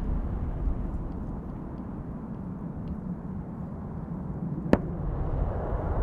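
Low rumble of a jet airliner's engines at a distance, mixed with wind buffeting the microphone, growing louder near the end. A single sharp click comes a little before the end.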